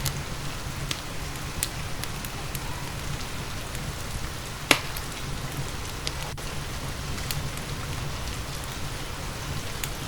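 Steady rain mixed with the crackle of a wood fire in a fireplace, scattered sharp pops over the hiss, one much louder pop about halfway through.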